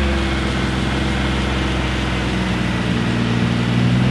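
BMW car engine running at steady revs, holding one even pitch.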